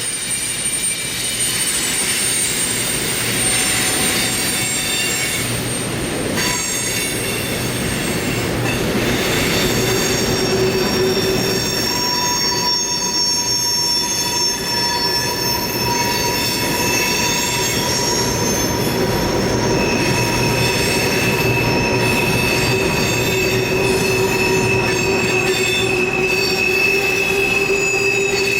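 Railroad cars rolling by with their steel wheels squealing against the rail: several steady high-pitched squeal tones over the rumble of the train, with a new, sharper squeal setting in about twenty seconds in.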